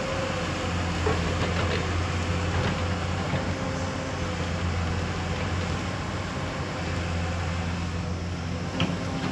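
Excavator's diesel engine running steadily, with a few light clanks from the machine's working parts.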